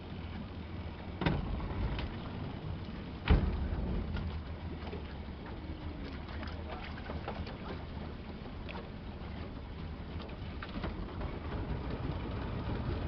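Motorboat engine running low and steady, with two sharp knocks about one and three seconds in, the second the loudest.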